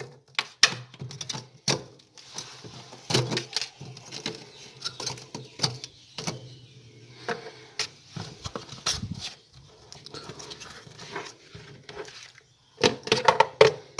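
Irregular clicks, taps and light knocks of objects being handled, with a faint hum underneath.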